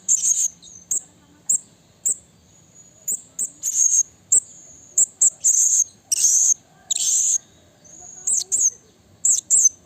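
Blue-crowned hanging parrot (serindit) calling: a quick series of short, shrill, high-pitched notes, with a few longer buzzy calls in the middle.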